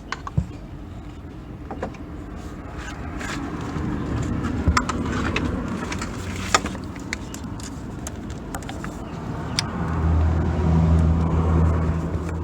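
Scattered sharp clicks and taps of hand tools on the air-conditioning compressor clutch of a BMW E46 318i as its centre bolt is taken out. A low steady hum swells for a couple of seconds near the end.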